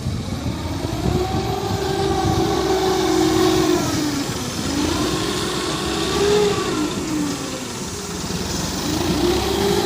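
Backhoe loader's diesel engine running and revving up and down several times, its pitch rising about a second in, dropping around four and a half seconds, rising again around six seconds and dipping near eight before climbing again near the end.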